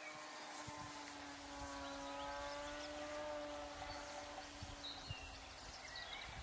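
Electric motor and propeller of a Hype ASW 17 foam RC electric glider, heard faintly at a distance as a steady buzzing drone whose pitch drifts slightly.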